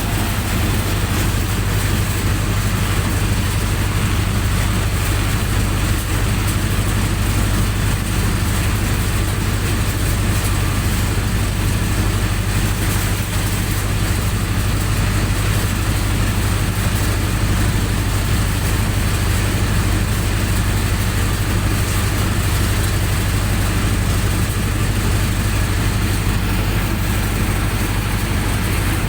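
Generator set's engine running steadily, a constant low hum.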